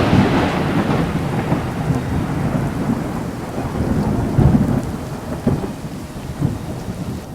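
Thunder rumbling over steady heavy rain, the long tail of a loud thunderclap fading through the first seconds, with another low roll of thunder about four seconds in.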